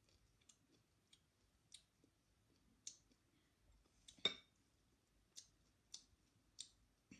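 Quiet, wet clicks and smacks of a person chewing food with the mouth closed, coming irregularly about once or twice a second, with one louder knock about four seconds in.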